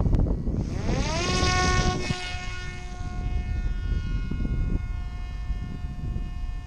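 Parrot Disco's electric pusher-propeller motor spinning up in a rising whine about a second in, then holding a steady high whine that slowly fades as the wing climbs away. Heavy wind rumble on the microphone throughout.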